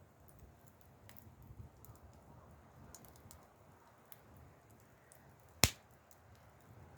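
Wood fire crackling softly with scattered small ticks and one loud sharp pop a little past halfway.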